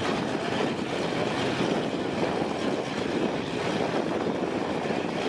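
Gasser drag cars' engines idling at the starting line, heard from a distance down the track as a steady low drone.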